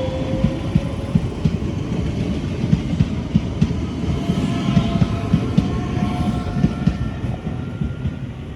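Two coupled Class 465 Networker electric multiple units running past as they pull away. The wheels knock over the rail joints under a steady rumble, with a faint electric motor whine above them, and it all fades near the end.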